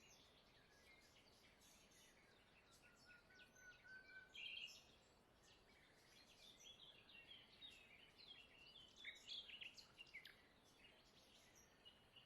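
Faint birdsong: several small birds chirping and twittering over a quiet hiss, with a short whistled note about four seconds in.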